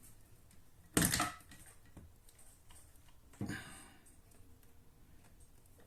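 Two short clattering knocks, about two and a half seconds apart, the first louder, from the bidet's supply tubing and plastic fittings being handled and fitted under a toilet.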